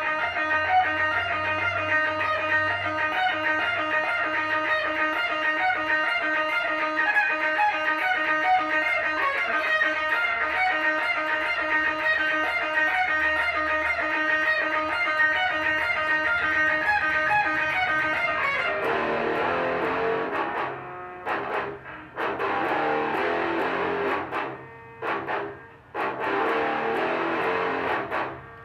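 Electric guitar music: a sustained, held melodic line for about eighteen seconds, then a stop-start riff of chords with short breaks between them.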